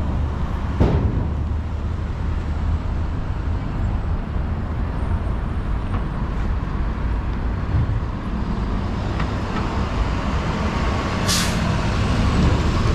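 City street traffic: a heavy vehicle's engine rumbling steadily under general road noise, with two short sharp sounds, about a second in and again near the end.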